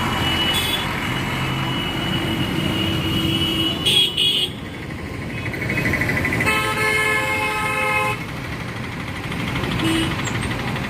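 Heavy road traffic with engine and tyre noise. Two short horn toots come about four seconds in, then a long horn blast of about a second and a half just past the middle.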